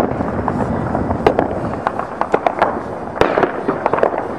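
Fireworks going off: an irregular run of sharp pops and cracks, with louder bangs about a second in and again about three seconds in.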